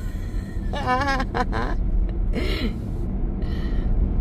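Steady road and engine rumble inside a moving car's cabin. About a second in comes a short wavering vocal sound, not words, followed by a couple of fainter brief sounds.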